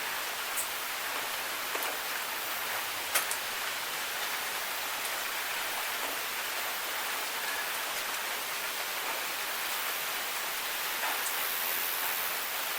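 Steady rain hiss, with single drops tapping sharply now and then, the clearest about three seconds in.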